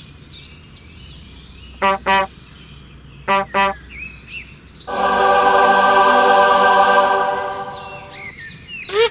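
A vehicle horn sounds two quick double honks, then one long blast lasting about three seconds that fades away, over a background of faint birdsong.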